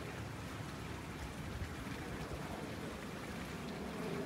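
Rain falling, a steady even hiss of drops.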